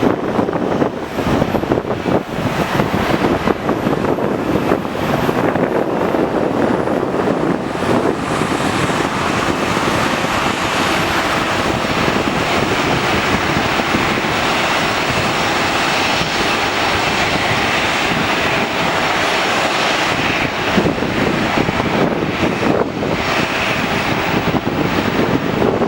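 Airliner's engines as the aircraft passes by: a loud, steady rush of engine noise that strengthens about a third of the way in, holds, and eases near the end. Wind buffets the microphone during the first few seconds.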